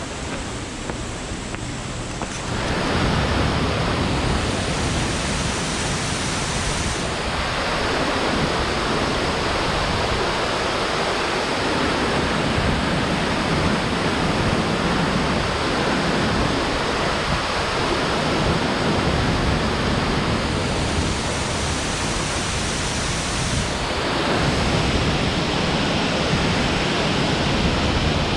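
Rushing water of a waterfall: a dense, steady noise that gets louder about two and a half seconds in.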